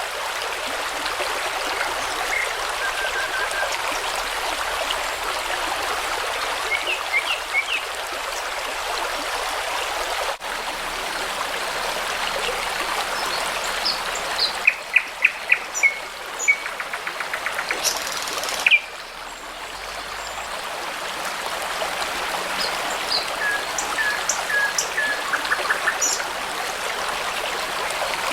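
Babbling brook running steadily, with songbirds calling over it: short chirps, and quick runs of repeated notes and trills around the middle and again near the end.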